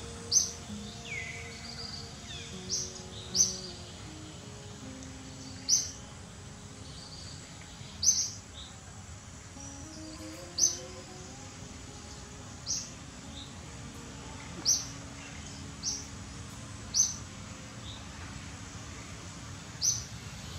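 A bird gives a short, sharp, high-pitched chirp about a dozen times, at irregular gaps of one to three seconds, over a steady outdoor background hiss.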